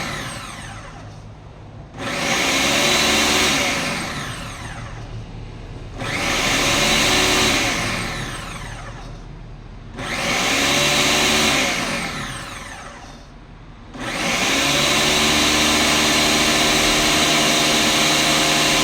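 Ninja blender motor running its automatic smoothie program. It starts up in bursts about every four seconds, each one winding down with a falling whine, and then runs steadily from about two-thirds of the way in.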